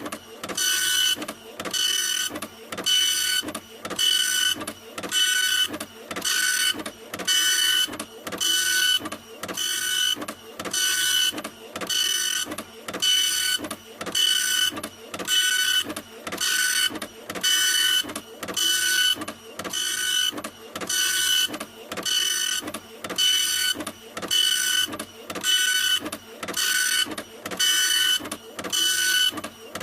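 Printer running continuously, its print-head carriage shuttling back and forth about once a second. Each pass is a short, steady motor whine, with a brief lull between passes.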